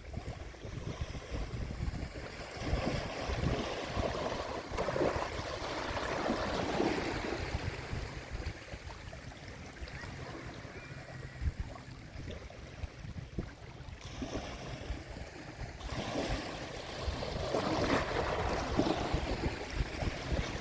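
Sea waves washing onto the shore, surging twice and falling back between, over a steady low rumble.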